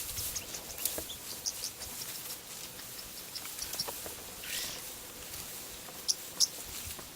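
Short, high bird chirps repeating at irregular intervals, with a brief hissing sound about four and a half seconds in.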